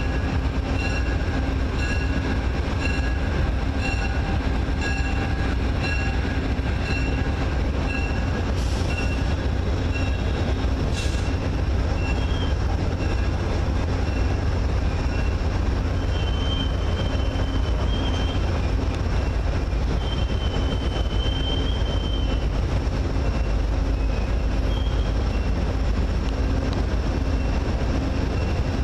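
A train rumbling steadily through a station. For the first ten seconds or so a high ringing tone repeats about twice a second. Later there are two brief held high squeals from the train wheels.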